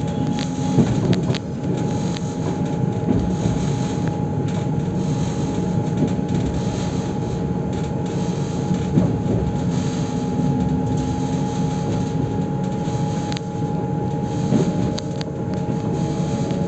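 Passenger train running: a steady running noise with a steady motor whine and a few scattered clicks from the wheels on the rails.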